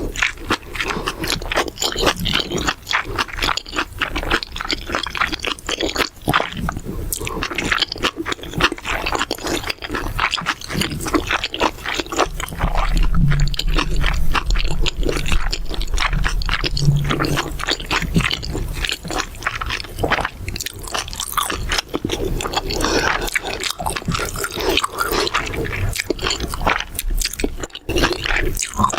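Close-miked eating of mala xiang guo: continuous crunchy chewing and biting with wet, squishy mouth sounds and some scraping. A deeper, louder stretch comes in the middle.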